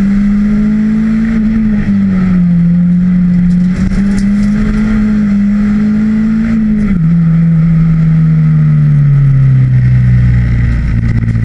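Seat Ibiza Cupra rally car's engine driven hard, heard from inside the cabin. The revs hold high, dip and recover, then drop sharply about seven seconds in and fall steadily as the car slows, settling low near the end.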